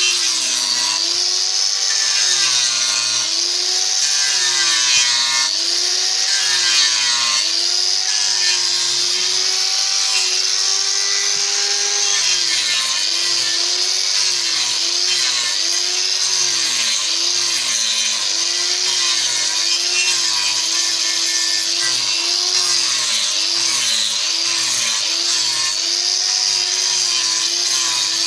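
Electric power tool cutting into wood. The motor's tone repeatedly dips and recovers as the cut loads it, over a steady hiss of cutting.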